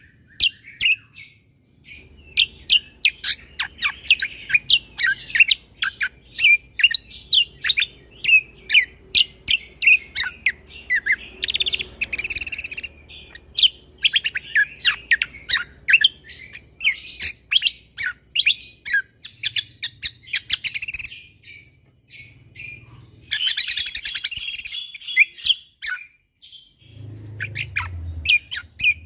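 Cucak kombo (kecial kombo) songbird singing energetically in rapid, tightly packed runs of sharp high chirps, with short pauses. A dense buzzy trill comes in a little before halfway and again later.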